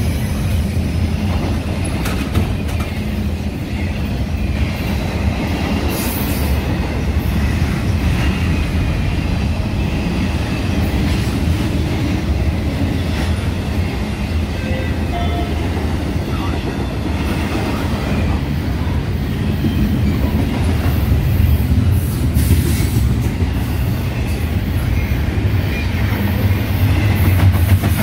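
Metra commuter train of bilevel coaches creeping to a stop at the platform and pulling away again, with a steady low rumble.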